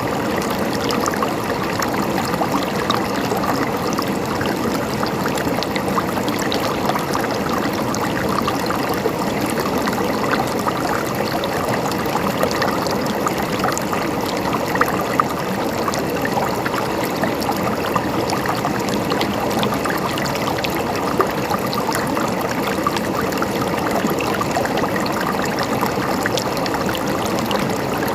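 A river or stream flowing and gurgling steadily over stones, an even rushing with small splashes.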